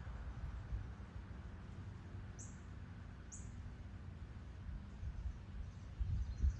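Two short, high bird chirps about a second apart, over a steady low rumbling noise that swells near the end.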